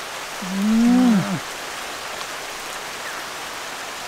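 Steady hiss of rain falling. About half a second in, a short voiced sound lasting about a second rises slightly in pitch and then drops away.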